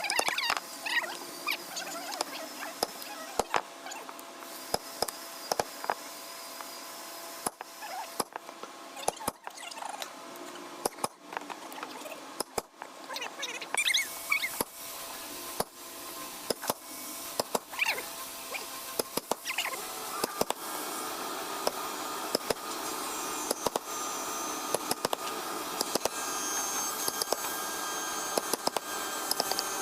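Woodworking at the bench: irregular sharp knocks and clicks of wood and tools, with short squeaks. About two-thirds of the way through, a steady machine hum joins in.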